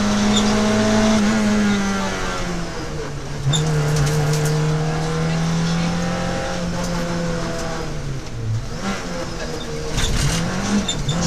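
Peugeot 106 XSi rally car's four-cylinder engine heard from inside the cabin under hard driving, revs rising and falling with lifts and gear changes. The pitch drops about two seconds in, holds, dips again near the end and then climbs quickly.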